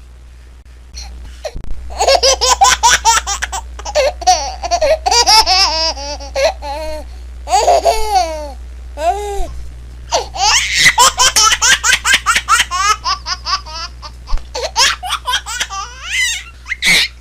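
Baby laughing in long runs of quick, high-pitched giggles and squeals, with a few short pauses between fits, over a steady low hum.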